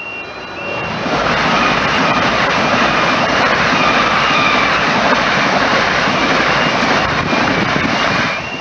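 Electric multiple-unit train passing over a level crossing at speed: a loud rush of wheels on rail and air that builds about a second in and falls away near the end. The crossing's warbling alarm sounds faintly under it.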